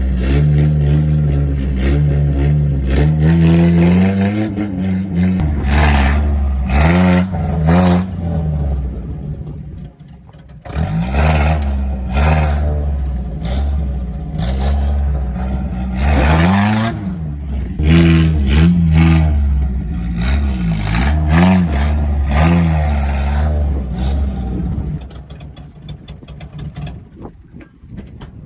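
Pickup truck engine revving hard again and again, its pitch rising and falling with each rev, with a brief break about ten seconds in. It drops away near the end.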